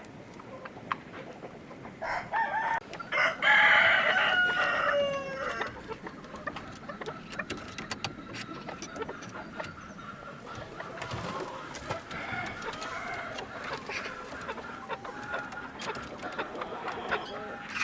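A rooster crows once, starting about two seconds in, followed by chickens clucking.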